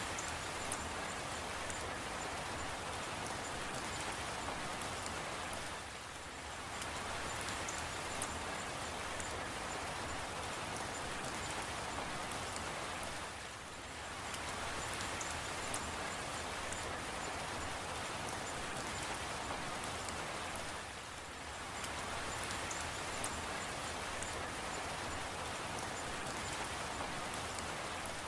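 Steady rain falling, with faint scattered drop ticks over an even hiss. It dips briefly in loudness about every seven and a half seconds.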